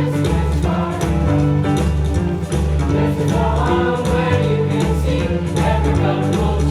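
Choir singing a holiday song over instrumental accompaniment with a steady bass line and a beat.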